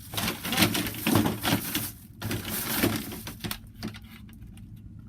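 Rustling, crackling and clicking handling noise, as of small objects and packaging being picked up and moved, for about three and a half seconds, then quieter.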